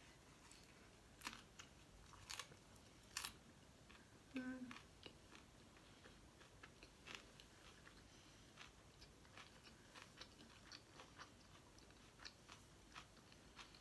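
Faint close-up chewing of a mouthful of pancake-wrapped roast duck with basil. A few sharper crunchy bites come in the first few seconds, then many soft, irregular mouth clicks; a brief hum of the voice comes about four and a half seconds in.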